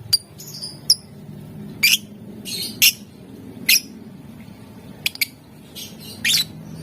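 Lovebird giving short, shrill, high-pitched squawking calls, about nine of them at irregular intervals, over a steady low hum.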